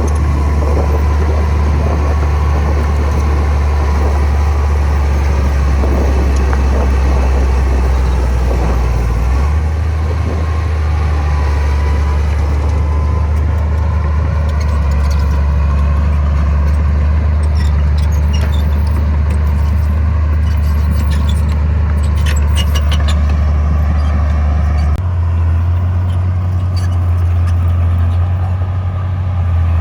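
The diesel engine of a heavy earthmoving machine runs steadily, with a low, loud drone. Its pitch shifts about a third of the way in and again near the end, and clicks and rattles come and go through the middle.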